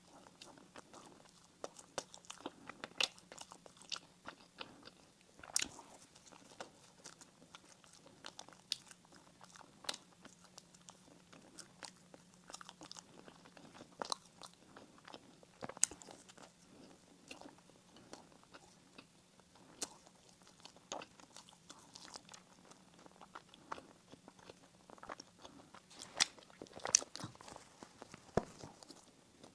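Close-miked eating of bread and pastries: biting and chewing, with many irregular sharp crisp clicks and crackles, the loudest near the end, over a faint steady low hum.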